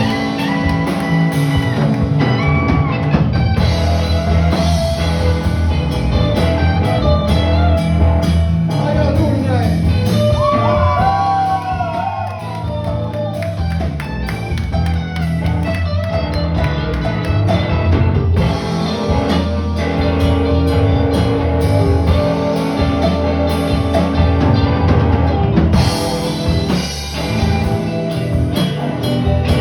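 Live rock band playing: electric guitar, bass and drums, loud throughout.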